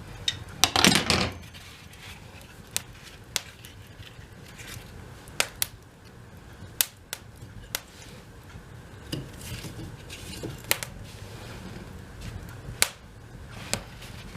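Wood fire in a fireplace crackling, with sharp pops at irregular intervals over a low steady background. About a second in there is a louder brief clatter of wood being handled.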